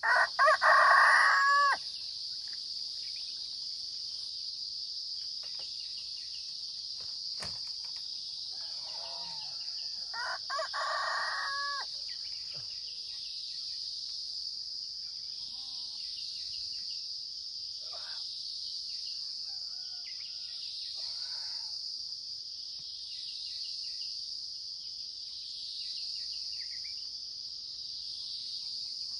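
A rooster crows twice, once at the start and again about ten seconds later, over a steady high drone of insects.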